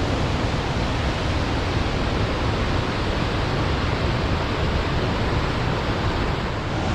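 Steady rushing of whitewater at the Potomac River's Great Falls, waterfalls and rapids pouring over bedrock.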